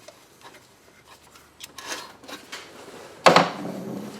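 Hard tools and parts being handled in a car's engine bay: scraping and rubbing, then one sharp clack a little over three seconds in.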